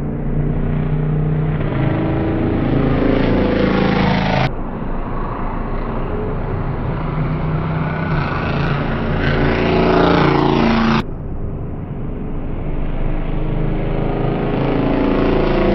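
MotoGP racing motorcycle engines revving at high speed on track, their pitch climbing as they accelerate, in three short clips with abrupt cuts about 4.5 and 11 seconds in.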